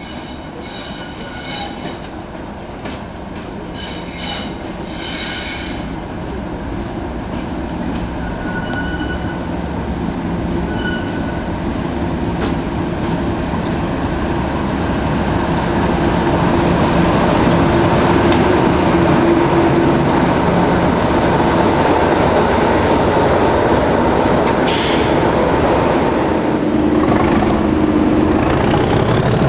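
English Electric Class 37 diesel-electric locomotive 37025, its turbocharged V12 engine running and growing steadily louder for about fifteen seconds as it draws near, then holding steady. Short high-pitched squeals from the wheels on the rails come in the first few seconds.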